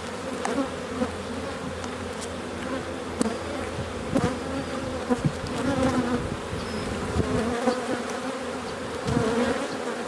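A colony of honey bees buzzing steadily around an open hive, many wings overlapping in a dense, wavering hum. A few sharp clicks are scattered through it.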